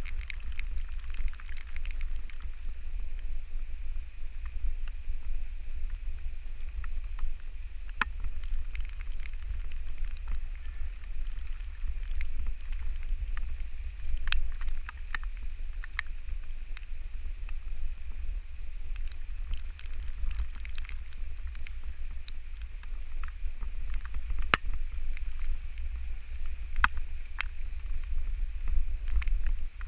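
Wind buffeting the microphone as a steady low rumble, with a few sharp clicks scattered through it.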